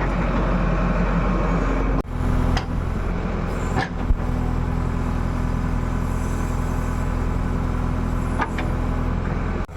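JCB digger's diesel engine running steadily under load, with a few short knocks about two to four seconds in. The sound breaks off briefly twice, about two seconds in and near the end.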